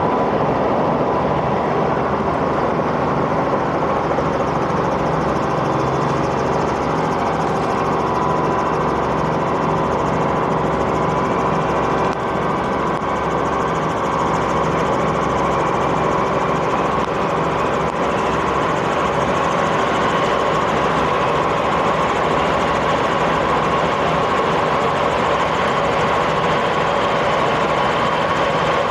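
Helicopter engine and rotors running steadily, heard from inside the cabin during takeoff.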